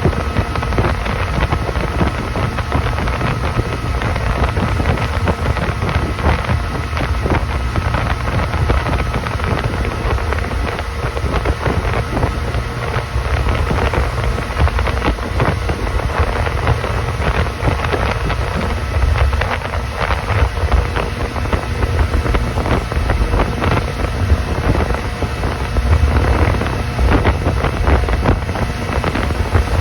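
Motorboat engine running steadily while the boat is underway, with wind buffeting the microphone in low, uneven gusts.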